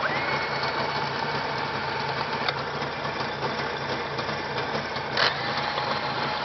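Jawa motorcycle engine idling steadily, with two sharp clicks near the middle and about five seconds in.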